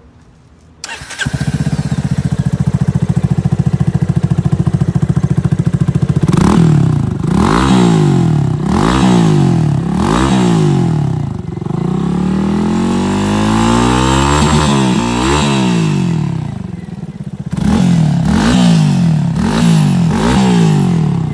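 Yamaha Fazer 250's single-cylinder four-stroke engine starting about a second in and idling. It is then revved in a run of short throttle blips, one longer rev and more blips near the end, heard through a semi-sport stainless-steel muffler that keeps a near-stock exhaust note.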